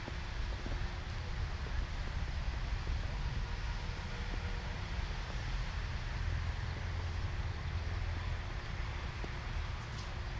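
Steady city street ambience in a blizzard: a continuous low rumble of traffic and wind under an even hiss.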